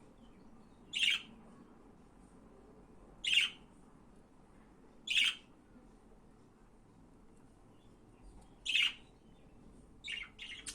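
Budgerigars giving short, sharp chirps, one at a time, spaced a couple of seconds apart, with two quick chirps together near the end.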